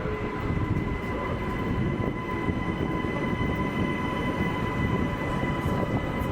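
Train running at the platform: a steady low rumble with a constant high whine.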